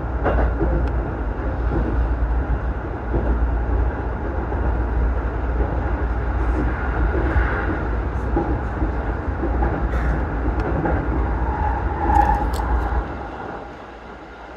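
Commuter electric train heard from inside the carriage while running, a steady low rumble of the ride that drops away near the end.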